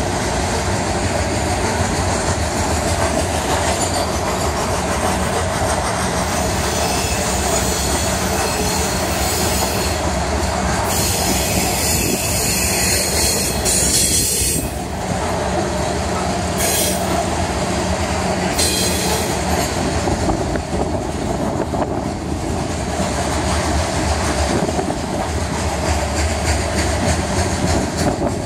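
Freight train of covered hopper cars rolling past at close range: a loud, steady noise of steel wheels on the rails. It turns sharper and hissier for a few seconds around the middle.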